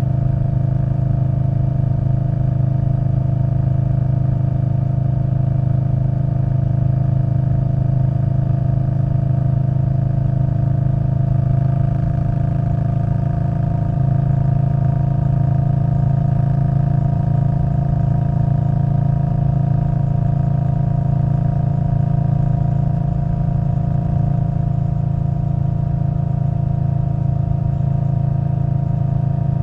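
2021 Indian Scout Bobber Twenty's 1133 cc V-twin, running through a Vance & Hines Twin Slash exhaust, holding a steady note while cruising. The engine note steps slightly about halfway through.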